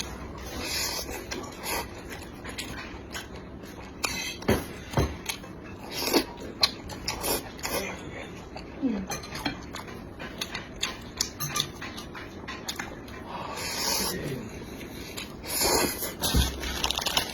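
Close-miked chewing of tiger-skin braised pork belly: irregular wet smacking and clicking mouth sounds.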